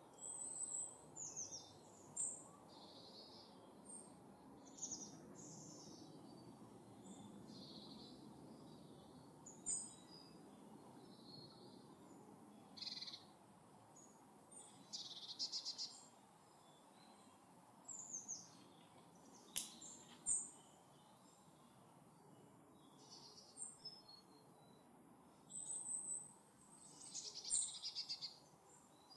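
Forest birds calling and singing: many short chirps and trills from several birds, scattered through the whole stretch, over faint low background noise.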